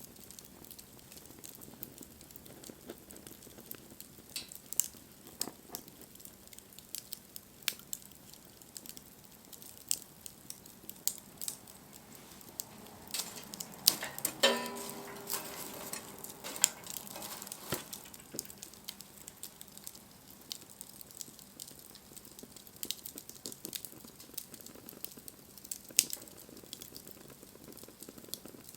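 Wood fire crackling, with irregular sharp pops and snaps over a low hiss. About halfway through, a short whistling hiss rises out of the fire for two or three seconds.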